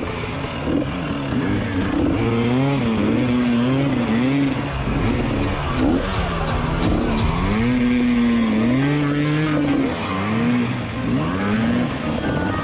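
Dirt bike engine revving over and over, the pitch climbing and dropping every second or two as the throttle is opened and closed.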